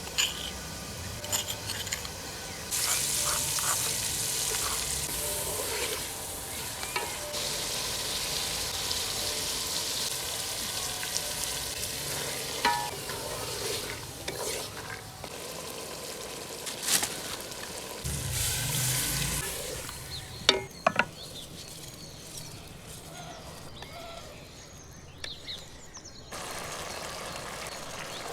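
Food sizzling and frying in a pot while it is stirred with a spoon, with a few sharp knocks of the spoon against the pot. The sizzle is loudest in the first part and fainter later on.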